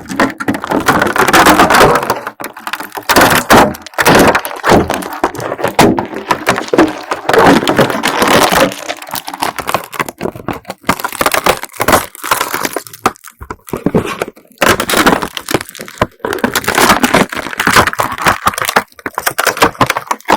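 Dried slime packed with beads being peeled off, crackling and popping in repeated bursts of a second or two.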